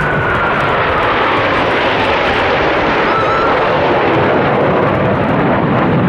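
Blue Angels Boeing F/A-18 Hornet fighter jet flying past with a loud, steady roar. A high whine slides down in pitch over the first couple of seconds as the jet goes by.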